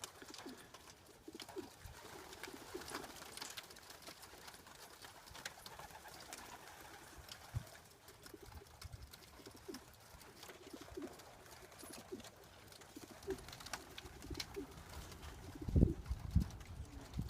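Racing pigeons cooing, with short low coos repeating on and off, and faint clicks and rustles. A couple of louder low thumps come near the end.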